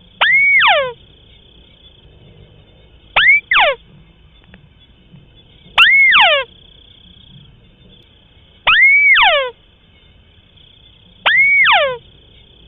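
White-browed crake calling, five calls spaced about every two and a half to three seconds. Each call is a note that sweeps up, holds, then falls steeply with a ladder of overtones; the second call is broken into two short notes.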